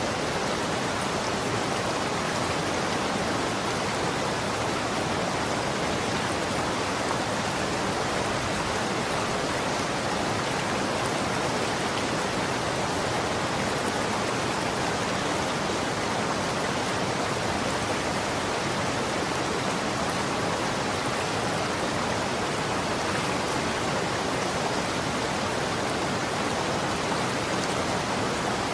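Running water flowing steadily: an even, unchanging rush.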